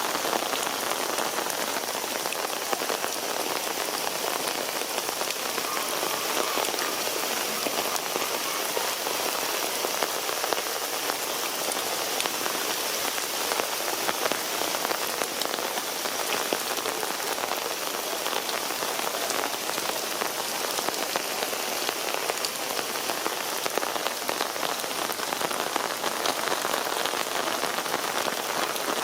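Heavy downpour: a steady, dense hiss of rain pouring down on hard surfaces, with no let-up.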